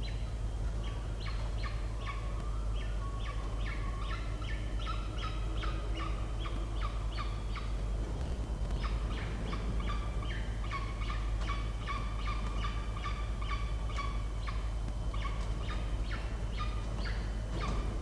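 Peregrine falcon calling in a long series of short, harsh, repeated notes, about two to three a second, with a brief pause about eight seconds in. A steady low hum runs underneath.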